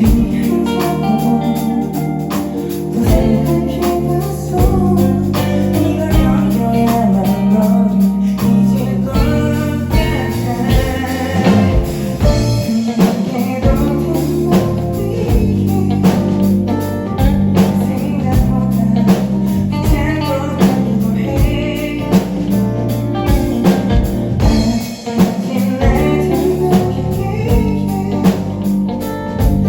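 Live band music at a concert: guitar and drum kit playing steadily, with a voice singing over them at times.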